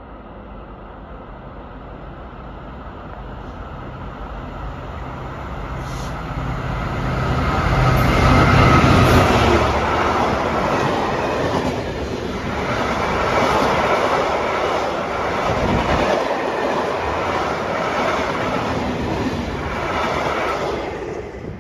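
A diesel freight train passing: the locomotive's engine drone grows louder and peaks about eight or nine seconds in. A long rake of loaded wagons follows, rolling by with a steady rumble and clickety-clack over the rail joints, and a little wheel squeal.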